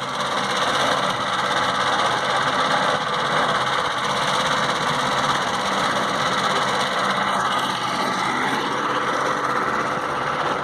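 Engine running steadily under constant load, an unbroken mechanical drone.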